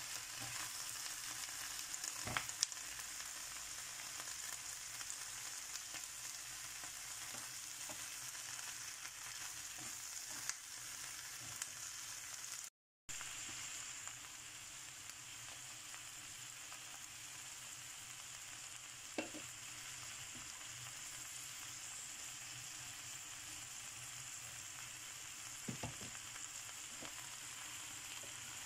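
Shell-on shrimp and sliced onions sizzling in a hot pan: a steady frying hiss, with a few light clicks along the way.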